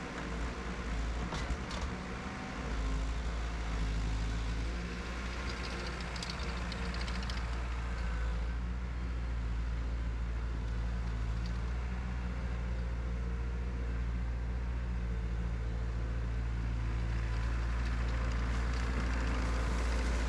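Cat 247 skid steer's diesel engine idling steadily, with a few sharp clicks in the first couple of seconds.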